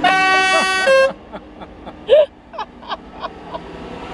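A loud horn blast about a second long from a vehicle in the tractor parade, dropping in pitch as it ends. It is followed about a second later by a short loud whoop, with faint short beeps repeating underneath.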